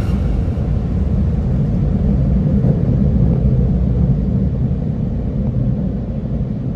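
Steady low rumble heard from inside a car's cabin as it goes through an automatic car wash, beginning to fade near the end.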